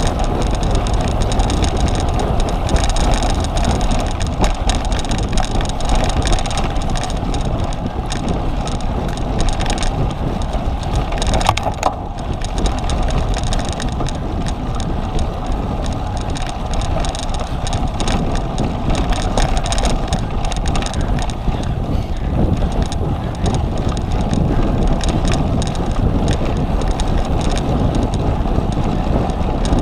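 Wind rushing over the microphone of a camera riding along on a cyclocross bike at race speed, mixed with the steady rattle and knocks of the bike over rough ground.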